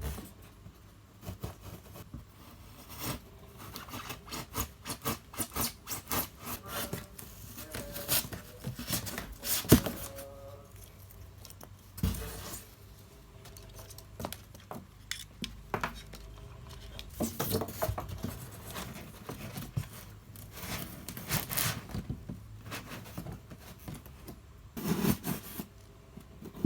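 Irregular scraping and rubbing with a few sharp knocks, from a hole being cut in a polystyrene foam box and a digital thermostat controller being fitted into it.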